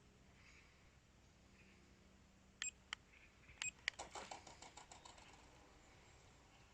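Three or four short sharp beeps, then a quick rattling run of clicks that dies away over a second or so, over near silence with faint bird chirps.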